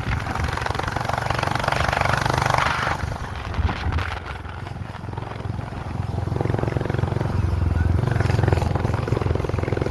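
A moving vehicle's engine and road noise, a steady low drone. About three and a half seconds in comes a brief run of knocks and rattles, as over bumps in a rough road.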